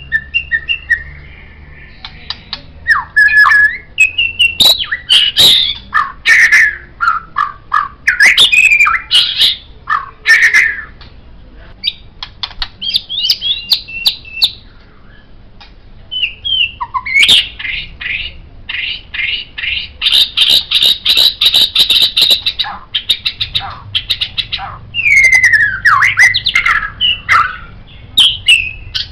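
White-rumped shama (murai batu) singing a long, varied song of loud sweeping whistles, sharp clicks and harsh notes. In the middle it runs into a fast string of repeated notes, about five a second.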